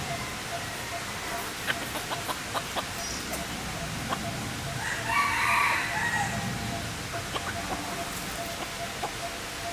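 A rooster crowing once, about five seconds in, a call lasting a second or so, with scattered light clicks around it.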